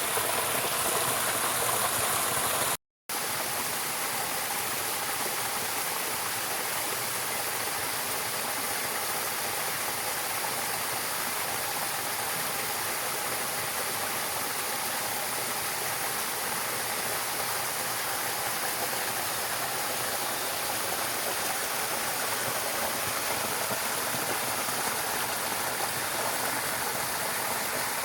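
Steady rushing of running water, like a stream or small waterfall. The sound cuts out for a split second about three seconds in, then resumes with a slightly different character.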